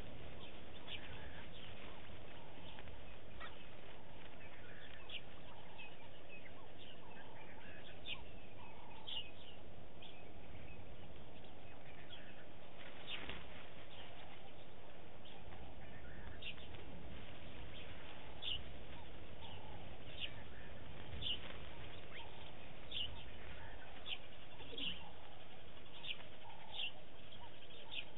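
Short, sharp bird chirps, a few at first and then about one a second in the second half, over a steady low background noise.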